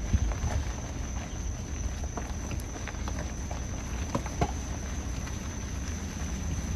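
Outdoor field ambience: a steady low rumble of wind on the microphone under a thin, steady high insect drone, with a few soft clicks or steps.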